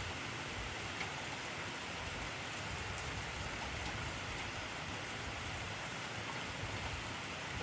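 Heavy rain falling steadily: an even hiss of rain on surfaces, with a few scattered sharper drop ticks.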